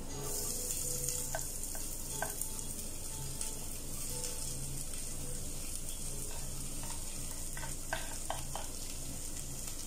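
Oil sizzling in a stainless steel pot as minced garlic fries and chopped onions are scraped in from a wooden cutting board, with a few light knocks about a second in, at two seconds and near the end.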